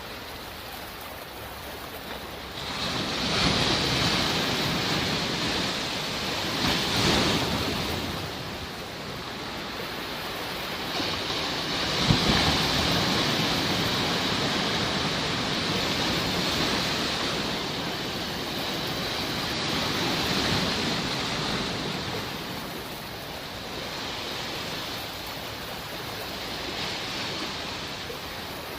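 Sea waves washing onto a shore, a rushing surge that swells and ebbs every few seconds, with the strongest breakers about 3, 7 and 12 seconds in.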